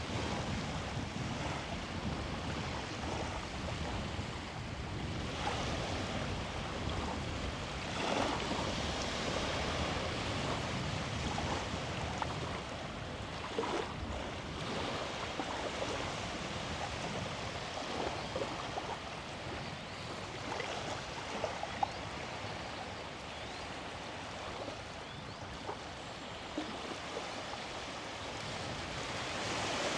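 Sea waves washing onto the beach: a steady rushing surf that swells louder now and then as a wave breaks.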